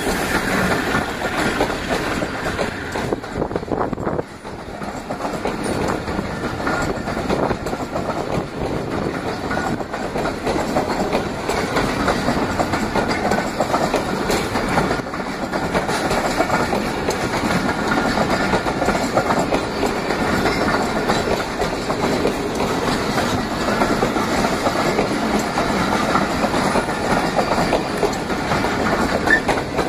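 Pakistan Railways passenger coaches rolling past close by: steady noise of steel wheels running on the rails, with a short dip in loudness about four seconds in.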